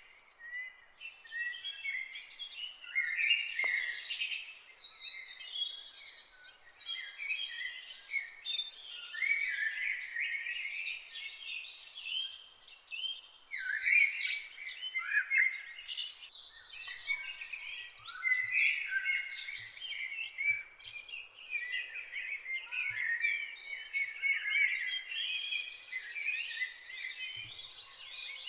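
Morning chorus of many songbirds, with dense overlapping chirps and song phrases from several birds at once.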